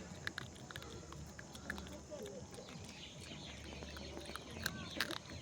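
Eating sounds: scattered wet chewing and lip-smacking clicks, with a few faint voice-like or animal-like calls.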